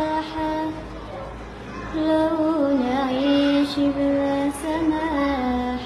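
A young girl singing solo, holding long notes and sliding between pitches in an ornamented Arabic style. There is a pause of about a second near the start.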